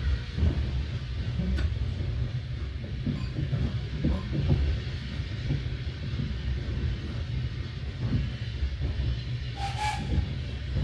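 Train running on the track: a steady low rumble with irregular clicks and knocks, and a brief higher squeal about ten seconds in.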